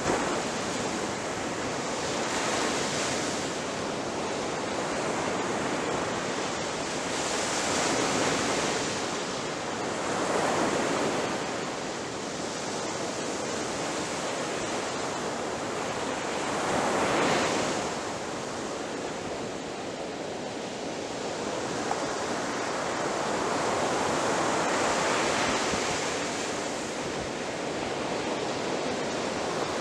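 Ocean surf breaking on a beach: a continuous wash of water with waves swelling and crashing every few seconds, the strongest break about seventeen seconds in.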